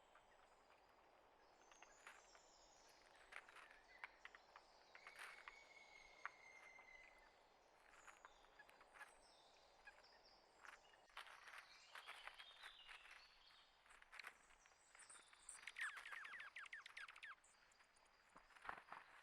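Faint chirps and calls of small wild birds, with a held whistled note about five seconds in and a rapid trill late on.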